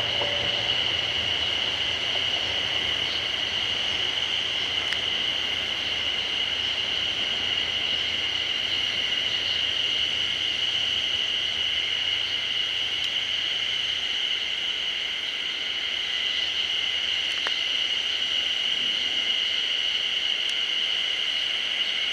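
The departing KiHa 183 series diesel railcar's engine rumble, faint and dying away about two-thirds of the way through, under a steady high-pitched drone that lasts throughout.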